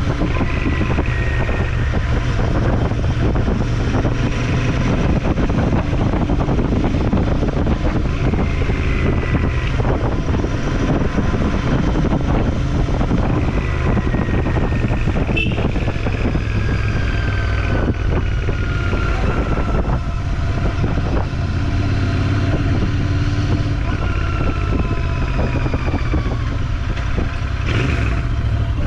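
Motorcycle running on the road, a steady engine drone with road and wind noise; a few times a higher whine slides down in pitch.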